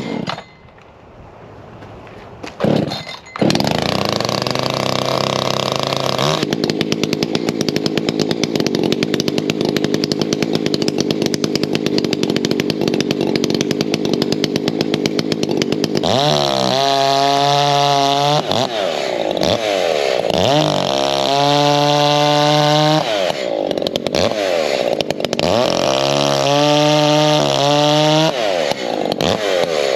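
Ported Echo CS-590 two-stroke chainsaw starting about three seconds in and running steadily to warm up. From about halfway through, the throttle is revved again and again, the pitch rising sharply and falling back each time.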